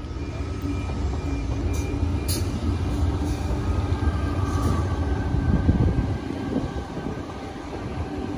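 Double-deck electric suburban train moving slowly at the platform close by, with a low rumble that builds towards the middle and steady motor whine tones. A few sharp clicks come about two seconds in.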